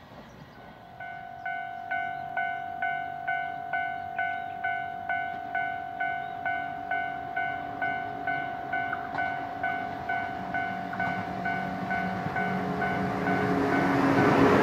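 Railway level-crossing warning bell ringing about twice a second, starting about a second in over a steady tone, then the growing noise of an approaching train near the end.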